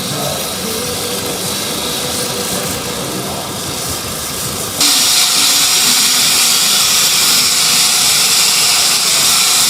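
Steady, loud hissing noise that jumps louder and brighter about five seconds in.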